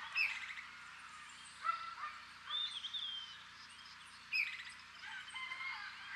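Small birds chirping and calling in short phrases, with quick rapid twittering trills near the start and again a little past four seconds.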